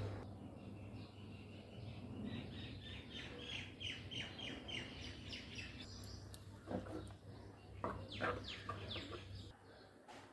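A bird chirping: a quick run of short falling notes, then several louder, sharper notes about seven to nine seconds in.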